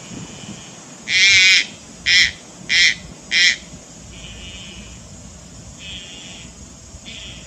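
A subadult Malayan night heron calling: one longer harsh call about a second in, followed by three short calls in quick succession.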